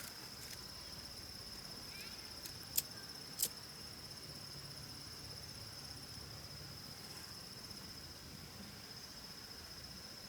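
Insects in the rainforest calling as one steady, unbroken high-pitched drone. Two sharp clicks stand out, a little under 3 s in and about half a second later.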